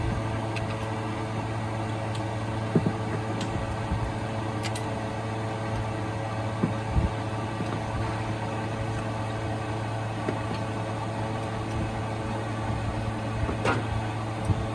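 Toyota 1ZZ four-cylinder engine running at a steady idle, an even hum with a few sharp metallic clicks from work on the car.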